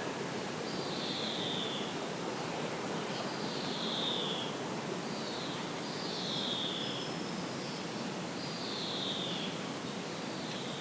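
A bird calling over and over, each call a short note sliding downward, about six in all, over a steady outdoor hiss.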